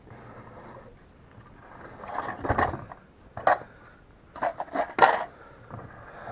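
Spare chainsaw parts being handled and set down: a rattle of clattering and rustling about two seconds in, a single sharp knock, then a quick run of knocks that is the loudest.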